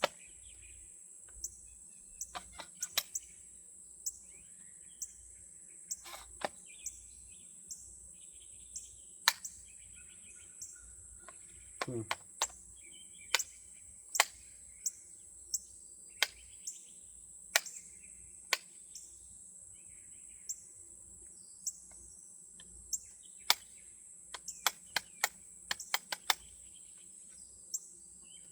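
Steady high-pitched insect buzz, with birds chirping now and then. Sharp clicks and knocks come through it irregularly, a few dozen in all.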